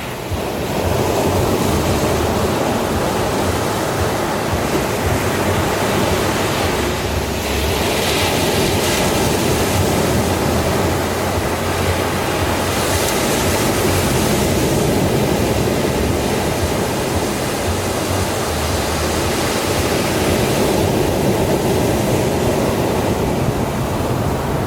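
Sea waves washing ashore, a continuous rushing of surf with slow swells as waves break.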